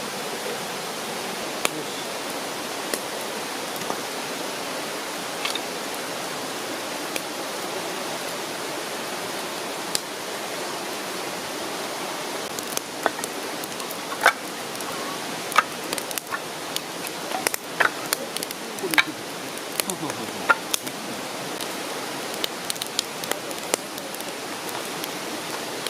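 Steady rush of a mountain river's water, with scattered sharp clicks and snaps over it that come thickest in the middle.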